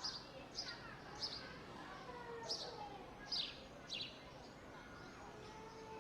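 Park ambience: a songbird repeating short, high chirps that fall in pitch, about seven of them at uneven spacing, over a faint murmur of distant voices.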